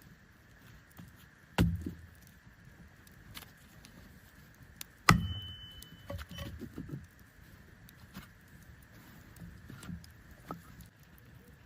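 Handling noises: two heavy knocks about three and a half seconds apart, with light clicks and rattles between them.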